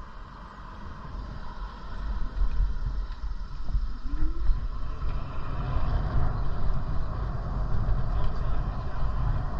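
Low rumble of wind and road noise while riding a bicycle, growing louder about two seconds in.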